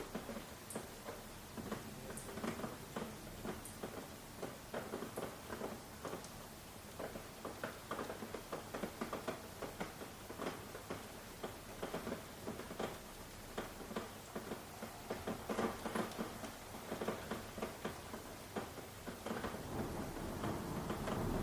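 Rain falling, with drops tapping irregularly on a surface. A few faint high ticks repeat about every second and a half near the start, and the rain grows louder and denser near the end.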